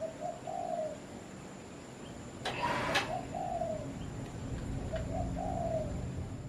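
A dove cooing three times, each phrase two short notes and a longer falling coo, over a steady hiss of rain. A brief loud rush of noise comes about two and a half seconds in.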